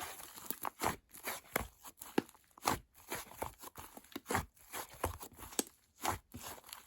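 Slime being squeezed, poked and stretched by hand, giving an irregular run of sticky pops and crackles, two or three loud pops a second.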